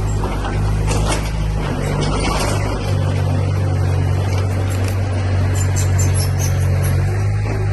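Diesel engine of heavy earthmoving machinery running steadily under load, with a few short clanks.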